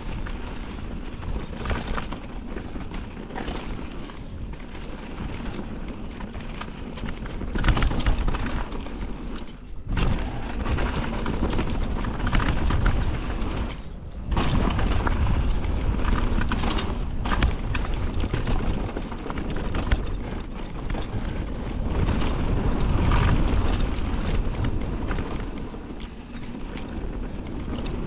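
Wind rumbling on the microphone over the rattle and knocks of a mountain bike riding fast down a rough dirt trail, surging louder and quieter as speed changes.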